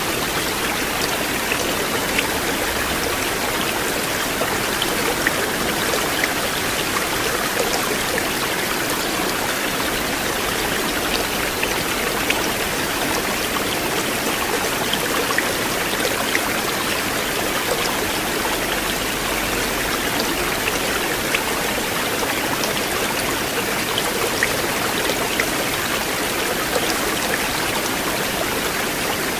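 River water flowing steadily, an even rushing with faint scattered ticks of small splashes.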